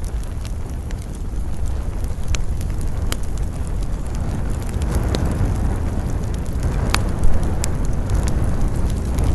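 Wood campfire crackling, with scattered sharp pops over a steady low rumble of flames and wind; one louder snap about seven seconds in.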